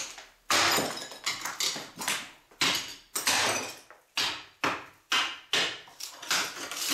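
Chiselling old ceramic tiles off a wall: a wood chisel is struck repeatedly, about two sharp blows a second, to lever the tiles away.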